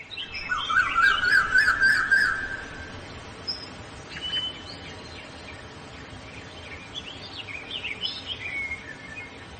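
Birds chirping and singing: a loud burst of rapid warbling song in the first few seconds, then scattered shorter chirps and calls over faint background hiss.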